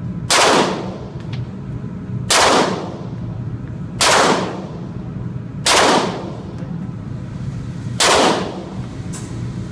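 Five single gunshots at a shooting range, fired one at a time with irregular gaps of about one and a half to two and a half seconds, each with a short ringing tail.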